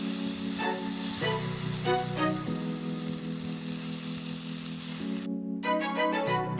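Food sizzling and frying on a hot griddle, a steady hiss under background music that holds long steady notes; the sizzle cuts off abruptly about five seconds in.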